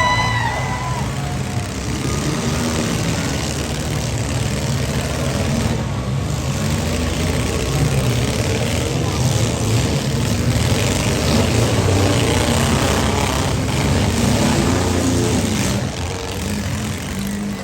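Several compact cars' engines running and revving together in a demolition derby heat, a dense, steady engine din.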